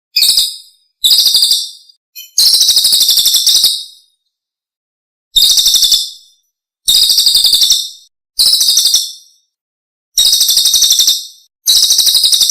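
Recorded songbird song for training caged birds (masteran): a rapid, high, pulsing trill repeated about eight times, each burst lasting up to about a second and a half, with short silences between.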